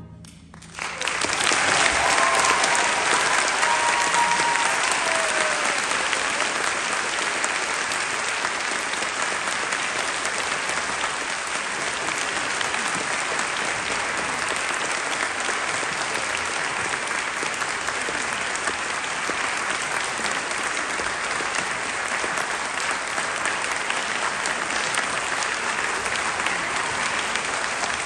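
Audience applauding. The applause breaks out about a second in, just after the orchestra stops, and goes on steadily.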